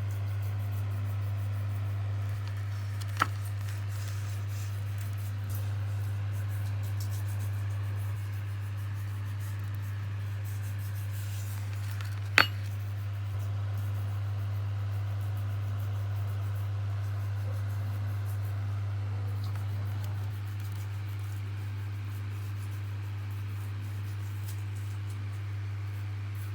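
A steady low hum throughout, with two sharp clinks about nine seconds apart, the second one louder.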